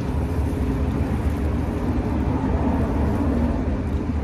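Steady low rumble of road traffic, with no clear starts or stops.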